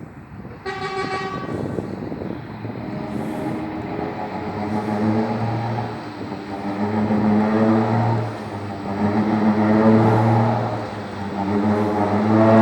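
Mercedes-Benz Axor 3240 truck's button-operated whistling exhaust: a short higher horn-like toot about half a second in, then a deep, steady horn-like tone from the exhaust that swells and fades in repeated waves over the running diesel engine.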